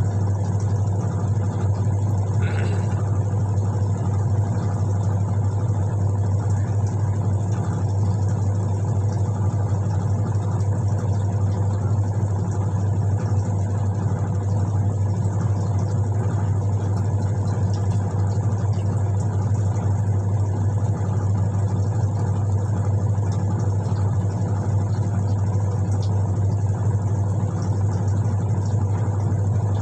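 Whirlpool White Magic Classic 6.5 kg washing machine running on its newly fitted 22.5 belt, with a steady, unbroken motor hum. The belt change has cured the machine's failure to wash or spin, which was caused by a fully loose belt.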